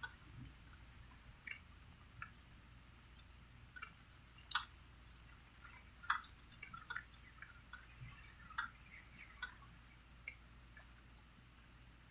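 Water drops dripping at an irregular pace, a few to several plinks a second, over a faint steady low hum.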